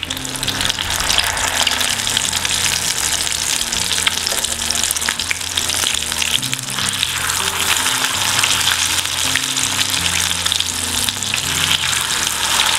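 Egg-coated mutton shami kebabs sizzling and spattering as they shallow-fry in hot oil in a nonstick pan, with many small crackling pops, while spatulas turn them over.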